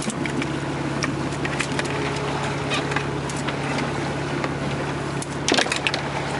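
Boat engine running steadily under wind and water noise, with scattered knocks and a burst of clatter about five and a half seconds in.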